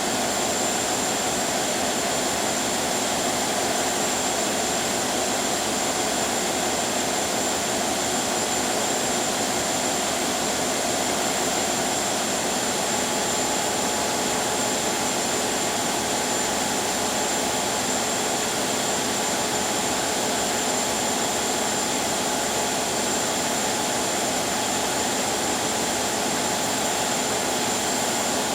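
Ship under way: a steady, unchanging drone of engine and rushing water, with a thin high whine running through it.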